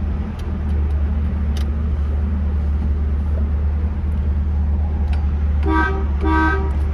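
A steady low engine hum from the idling 260 V8, then two short honks of the 1964.5 Ford Mustang's horn near the end.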